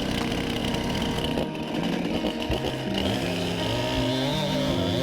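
Small engine running, joined from about two seconds in by background music of held notes that step up and down.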